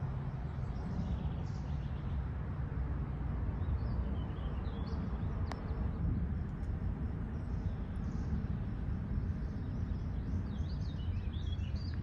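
Outdoor ambience: a steady low rumble, with a few faint bird chirps about four seconds in and again near the end, and one sharp click midway.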